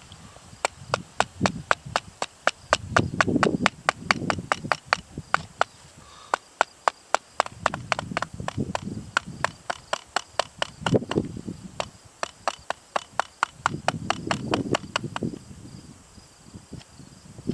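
Rapid chopping on wood: runs of sharp taps, about five or six a second, broken by short pauses with rustling handling between them.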